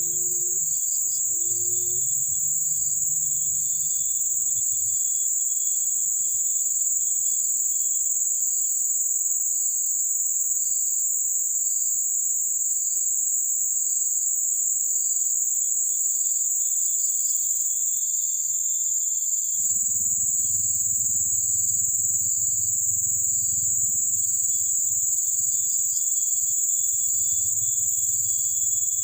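Insects shrilling in the forest: a loud, steady, very high-pitched drone with a second insect chirping in regular pulses over it. A low steady hum comes in about two-thirds of the way through.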